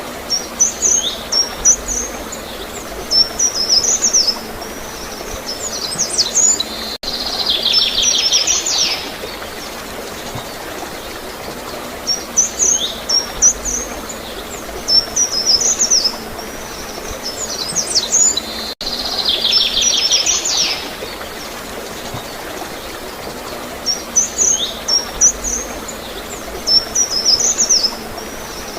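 Small birds chirping in quick bursts of short high notes, with a buzzy trill now and then, over steadily gurgling flowing water. The same stretch of birdsong repeats about every 12 seconds.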